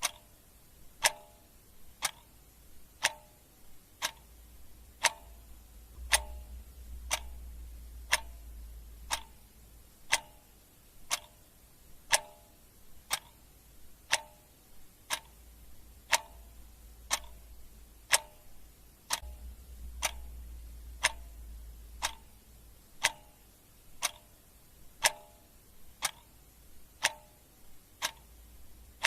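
Ticking clock sound effect: a steady tick about once a second, each a sharp click with a brief ringing note. A faint low hum sits underneath and swells twice.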